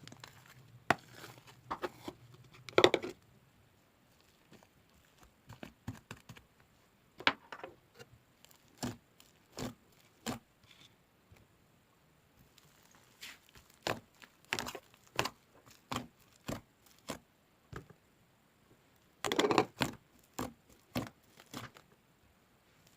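Fluffy mixed slime being pressed and squished by hand, making irregular sticky clicks and small air-bubble pops. Louder bursts of popping come about three seconds in and again a few seconds before the end.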